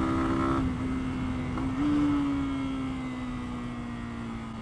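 Lexmoto Venom 125's single-cylinder 125cc engine under way, with low wind rumble. The engine note drops about half a second in as the throttle comes off, rises briefly a second later, then slowly falls in pitch and loudness as the bike slows.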